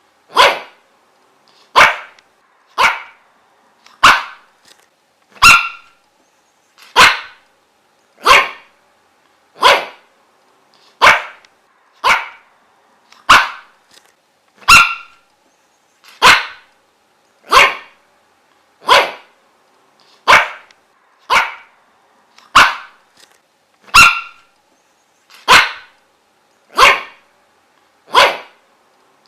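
A dog barking: single sharp barks repeated over and over at a steady pace, about one every second and a half, with short quiet gaps between.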